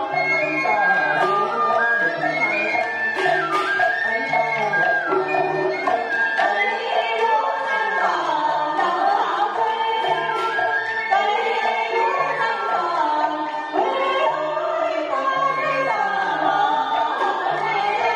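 Traditional Vietnamese music of the kind played live for a water puppet show: a melody that slides between notes over a repeating low note, with drum and percussion strokes.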